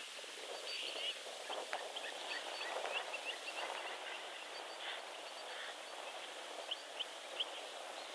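Birds chirping with many short, quick notes scattered through, over a steady outdoor background hiss.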